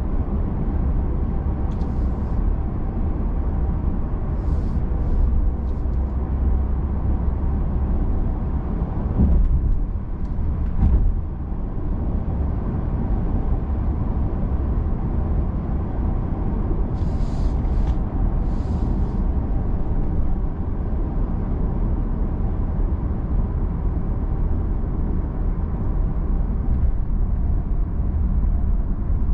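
Steady low rumble of tyre and engine noise inside the cabin of a moving Genesis G80 3.5 gasoline turbo sedan, with a couple of brief bumps about nine and eleven seconds in.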